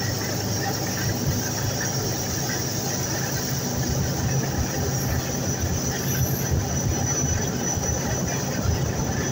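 Passenger train running along the track, heard from aboard: a steady rumble of wheels and coaches with a thin, steady high whine over it.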